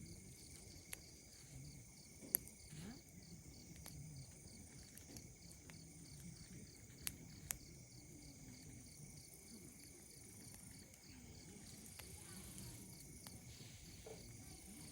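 Wood campfire crackling with a few sharp pops, over a steady, evenly repeating chirring of insects.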